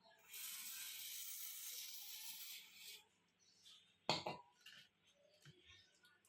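A steady hiss for about two and a half seconds that cuts off suddenly, then a single sharp tap of a hard object on the work surface about a second later, followed by a few faint clicks.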